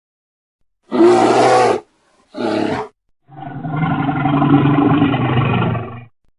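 A large animal calling three times: two short calls, then one long low call of nearly three seconds. Each call stops abruptly, with silence between.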